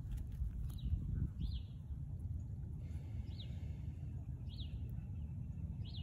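A songbird calling short falling chirps four times, a second or so apart, over a steady low rumble. A few soft rustles near the start come from a hand picking through wood mulch.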